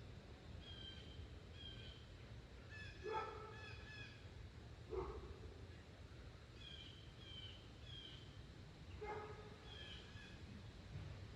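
Faint low wind rumble with birds calling: short high chirps repeated every second or so, and three louder, lower calls about three, five and nine seconds in.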